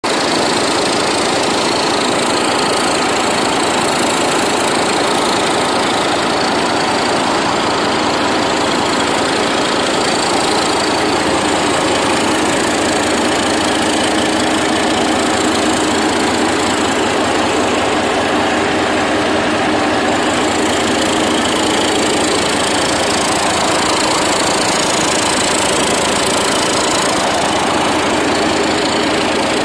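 An engine running steadily at an even idle, with a rapid, regular beat.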